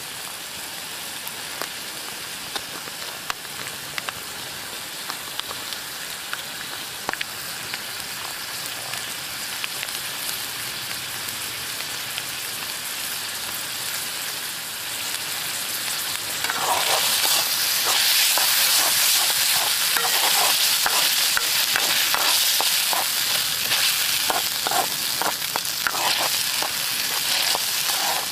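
Food frying in an iron wok: a steady sizzle with scattered clicks, which turns suddenly louder a little past halfway. After that the stirring clatters rapidly against the pan.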